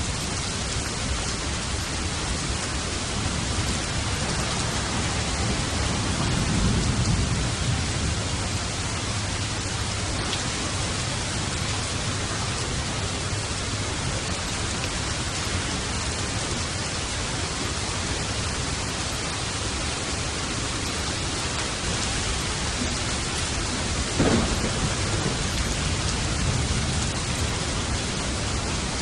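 Steady heavy rain with thunder: a low rumble swells about six seconds in, and a sharper clap of thunder breaks about 24 seconds in, rumbling on afterwards.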